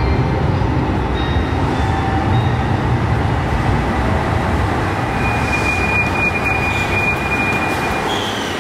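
Passenger train running at a station, a steady loud rumble, with a high-pitched steady squeal for about three seconds starting about five seconds in.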